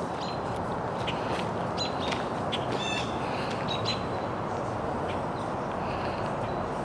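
Small birds chirping: many short, high chirps and brief whistles, one every half second or so, over a steady rushing background noise.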